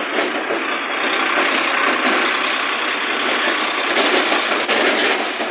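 Tractor engine running, a loud, steady mechanical noise that grows louder near the end.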